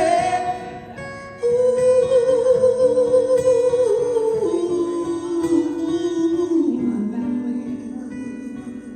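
Closing bars of an acoustic song: a long wordless held vocal note over strummed acoustic guitar, stepping down in pitch twice and fading out at the end.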